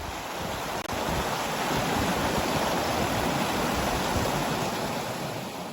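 Steady rush of river water running over rocks, easing off near the end.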